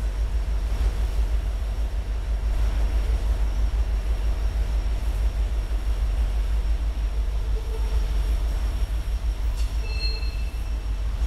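Freight train cars rolling past close by with a steady rumble, with a brief high-pitched wheel squeal near the end.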